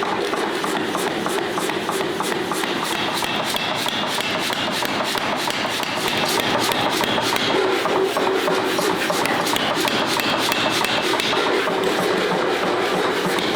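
Steel being ground or rasped by a motorised abrasive tool: a continuous rasping grind over a steady motor tone, a little louder from about six seconds in.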